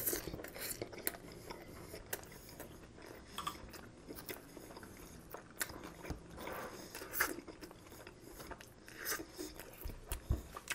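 A bite into a toasted sesame-sourdough grilled cheese with a burnt-cheese crust right at the start, then close-miked chewing with scattered small clicks and smacks.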